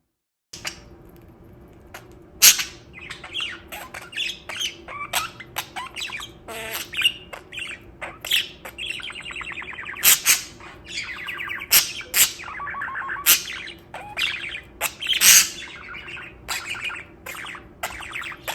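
Pet budgerigar chattering: a continuous run of sharp chirps, squawks and rapid warbling.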